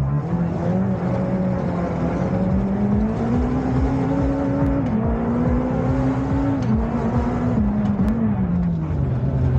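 Renault Clio R3C rally car's engine revving hard under load, heard from inside the cabin: the pitch climbs over the first few seconds, drops at a gear change about five seconds in, climbs again, then falls away steadily near the end.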